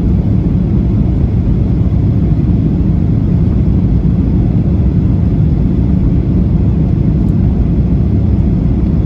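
Steady low rumble of cabin noise inside a Boeing 737-800 airliner on its descent: engine and airflow noise heard through the fuselage.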